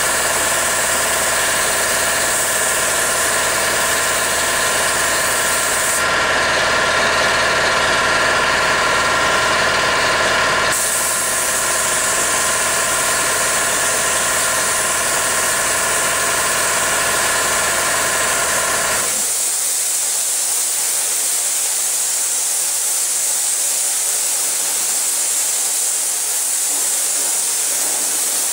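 A motor running steadily with a whine, cutting out about two-thirds of the way through and leaving a loud steady hiss.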